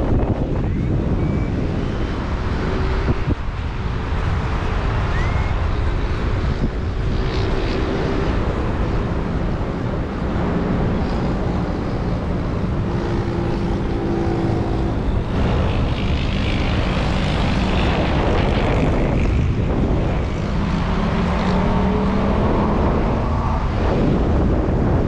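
Strong wind buffeting the microphone in flight, with a low hum whose pitch wavers slowly through much of it.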